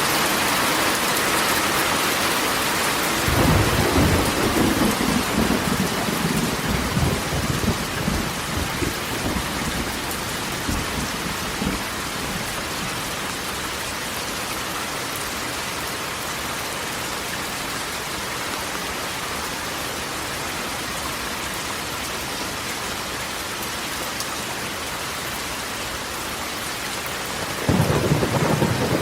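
Heavy rain drumming steadily on a corrugated metal roof. A roll of thunder rumbles in about three seconds in and fades away over several seconds, and another begins near the end.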